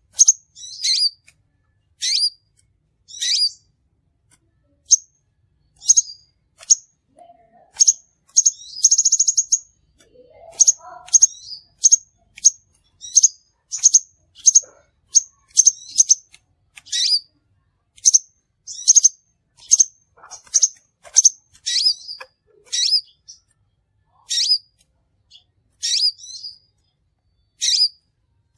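Crimson sunbird calling: short, sharp, high chirps repeated about once or twice a second, with a brief buzzy trill about nine seconds in.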